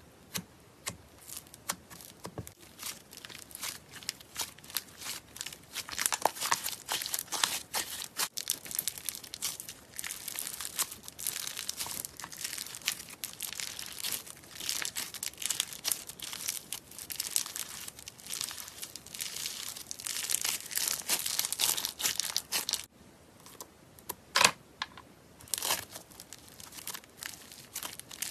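Slime being squeezed and worked by hand, giving dense crackling clicks and pops. The crackling thins to a brief lull past the middle, then a few single pops, then picks up again near the end.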